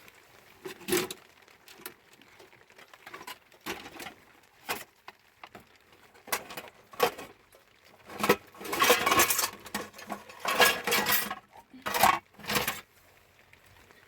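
Irregular clinks, knocks and rattles of hard objects being handled, sparse at first and then in denser, louder clusters in the second half.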